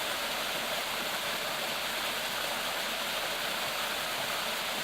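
Waterfall running with a steady, unbroken rush of falling water.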